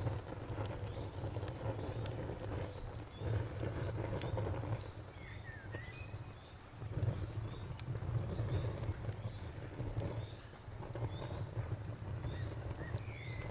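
Crickets chirping in a steady, even rhythm over a campfire's crackle, with scattered sharp pops and a low rumble that swells and fades.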